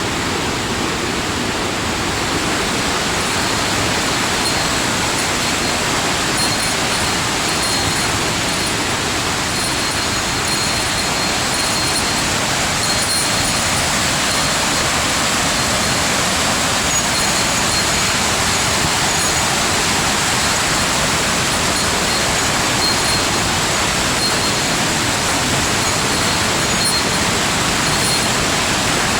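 Waterfall pouring steadily, an even rushing of water that does not change.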